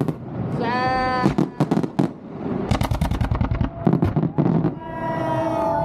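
Fireworks bursting overhead in a rapid, uneven string of sharp bangs and crackles, with a short pitched tone about a second in and people's voices calling out near the end.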